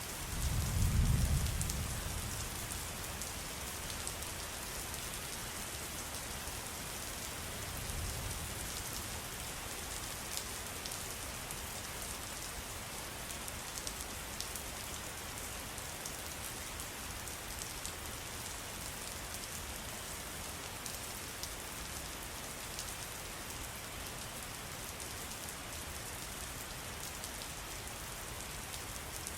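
Steady patter of falling water with many fine drop ticks, like rain or a trickle in a forest. There is a brief low rumble about a second in and a fainter one about eight seconds in.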